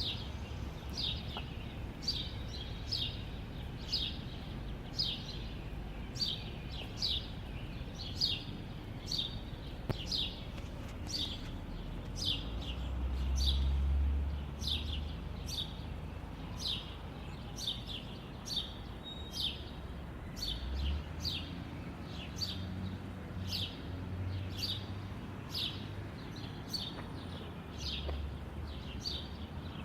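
Bird chirping over and over, short falling chirps about one to two a second, over a low rumble that swells briefly about thirteen seconds in.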